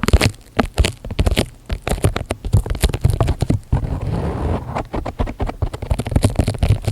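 Close-miked crinkling and crackling of material handled right at the microphone: a dense, irregular run of sharp crackles, with a brief rustling hiss about four seconds in.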